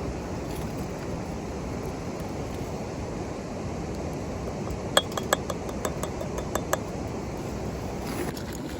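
A quick run of light clinks from tableware or cooking utensils, about nine in under two seconds, about five seconds in, over a steady wind noise.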